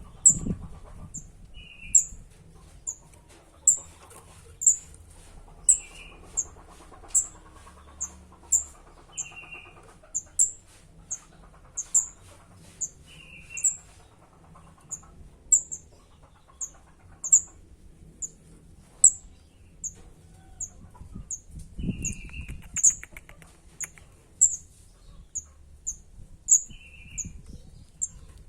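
Kemade chick begging for food, giving short, very high, sharp chirps about one to two a second, with a lower buzzy call every few seconds.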